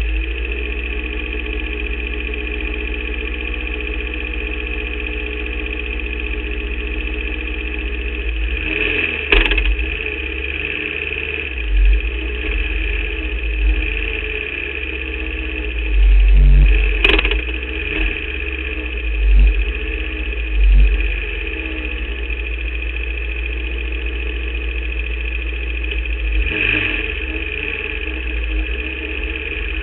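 Formula Vauxhall 8-valve racing engine heard onboard, running at a steady speed, with occasional louder low rumbling swells and a couple of sharp clicks. The engine is misfiring, the car also suffering an alternator/battery fault.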